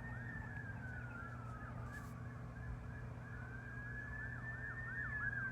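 Emergency vehicle siren wailing: one tone slowly falls, rises and falls again, with a quicker repeating yelp pattern over it.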